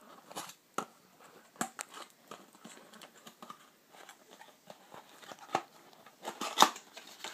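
Packaging crinkling and rustling as a power adapter is unwrapped by hand, with scattered clicks and light knocks; the loudest crinkle comes about six and a half seconds in.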